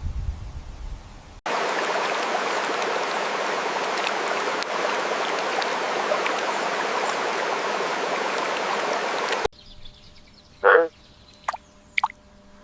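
Steady rushing water, like a stream, starting abruptly about a second and a half in and cutting off suddenly about eight seconds later. After it, in a quieter scene, comes one short louder sound and then two sharp clicks.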